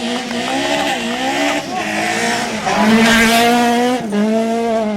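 Rally car engine at high revs, its pitch climbing and dropping sharply at each gear change, with the loudest moment about three seconds in as the car comes past.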